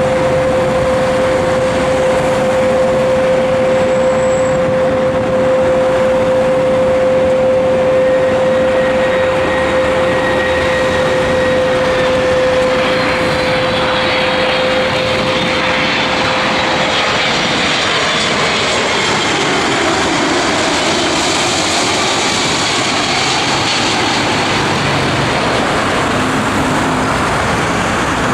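Boeing 767-300 twin-engine jet on approach to land, its engines running with a steady hum and whine. About two-thirds of the way through the pitch drops as the airliner passes by.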